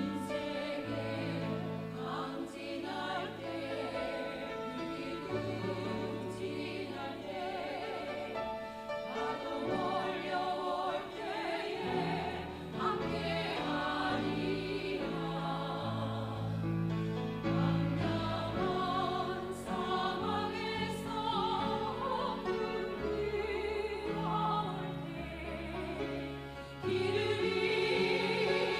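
A small vocal ensemble singing a gospel song together over instrumental accompaniment with sustained bass notes. It grows louder shortly before the end.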